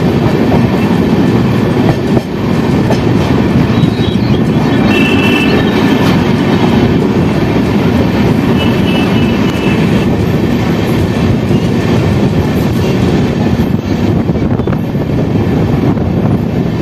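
LHB passenger coaches of the Garib Rath Express running along the track, heard from the open doorway: a loud, steady rumble of wheels on rail, with a brief high squeal about five seconds in and again about nine seconds in.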